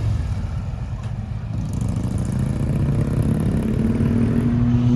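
Harley-Davidson motorcycle engines running at idle, a steady low rumble that grows louder, with a steadier engine note coming in about four seconds in.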